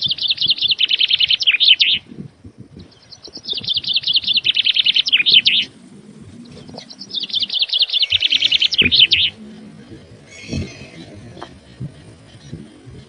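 A small songbird singing three loud, rapid trilled phrases, each about two seconds long and falling slightly in pitch, with short pauses between them. Faint low knocks sound underneath.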